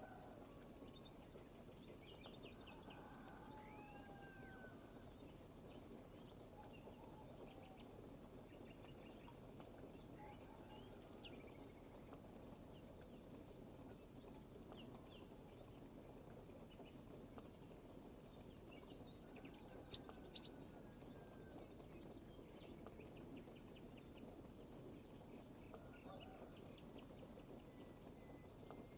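Faint birdsong: several birds chirping and trilling on and off over a steady low background hiss. A sharp click about 20 seconds in.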